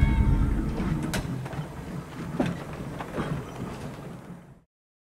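Streetcar rumbling on its rails, with scattered clicks and knocks. The rumble is loudest at first, fades, and cuts off to silence about four and a half seconds in.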